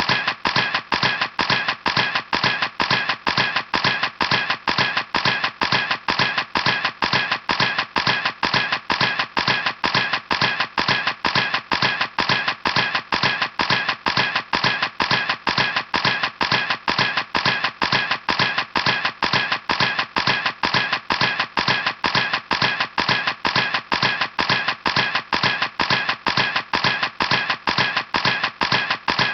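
Camera shutter clicking over and over at an even pace, about three clicks a second, each click the same.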